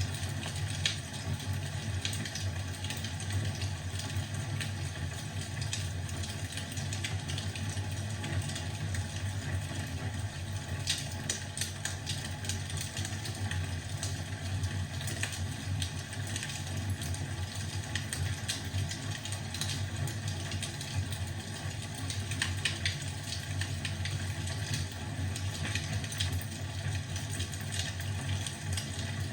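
Wood fire crackling in a fireplace: frequent small pops and snaps over a steady low hum.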